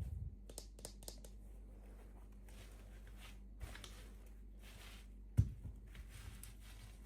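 Quiet handling noises of unboxing: soft rustles and small clicks, with one low thump about five seconds in, over a steady low hum.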